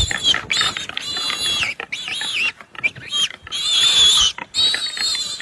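An animal squealing in distress: a string of about six high, wavering squeals, each under a second long, in quick succession.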